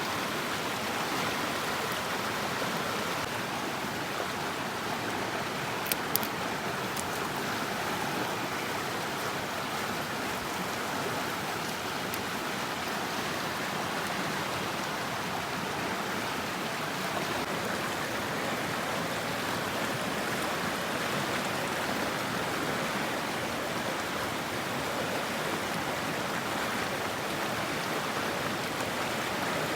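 Mountain stream running steadily, with two brief sharp clicks about six seconds in.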